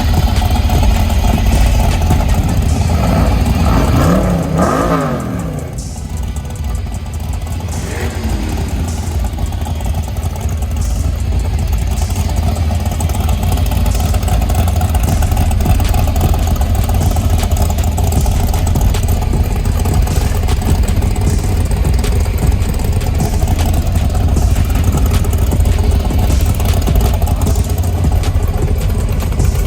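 Car engine rumbling at idle, revved up around four seconds in and again briefly about eight seconds in.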